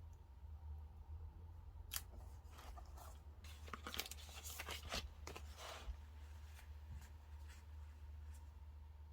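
Scissors snipping paper or sticker sheets: a quick run of crisp cuts in the middle, then only light scattered clicks.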